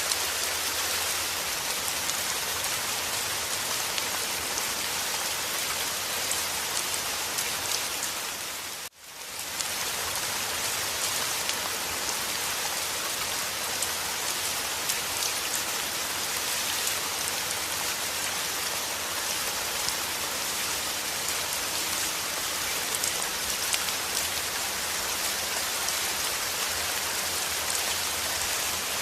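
Steady rain falling, an even hiss with fine patter of drops. About a third of the way in it briefly fades almost to nothing and comes straight back.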